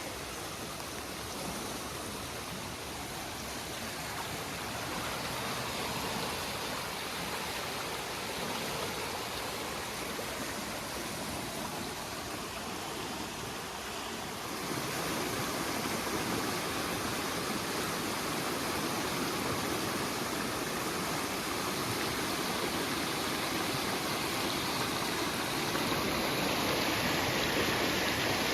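Creek swollen with storm runoff, its water rushing steadily; it grows louder about halfway through.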